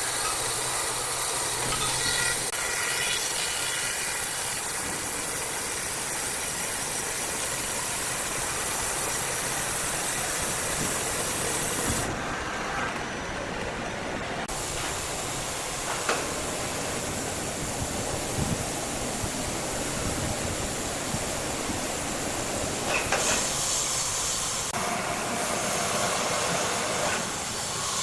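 Large sawmill saw and its machinery running with a steady hissing noise and a few scattered knocks; the hiss dulls for a couple of seconds about twelve seconds in.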